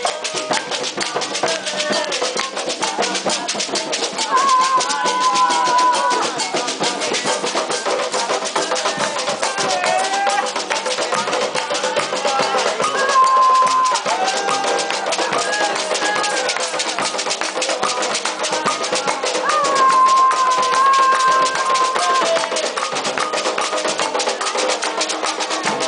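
Candomblé ritual music for Xangô: fast, steady hand-drumming with rattles, and voices chanting a Yoruba-language song over it, holding long notes now and then.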